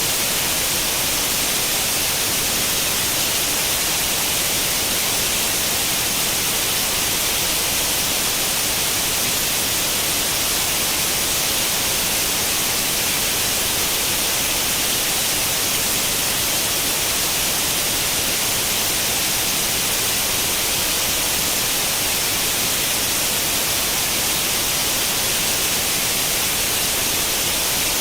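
Steady white noise in the manner of an old tube television's static with no channel tuned: an even, unbroken hiss, brightest in the high frequencies.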